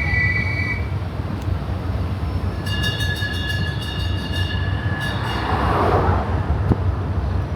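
Noumea Tchou Tchou tourist train running, with a steady low rumble. High steady squeals sound briefly at the start and again for about two seconds in the middle, followed by a short noisy swell.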